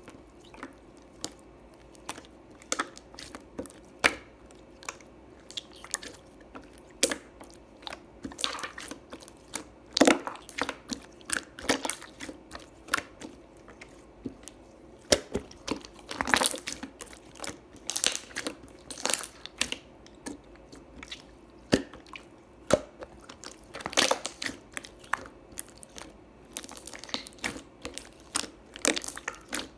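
Hands squeezing and folding a glossy, honey-like slime, making irregular wet clicks and pops, sparse at first and coming thick and fast from about a quarter of the way in.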